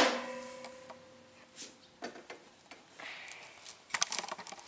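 A metal clank ringing out and fading over about two seconds, followed by scattered light clicks and taps of tools or parts being handled, busier near the end.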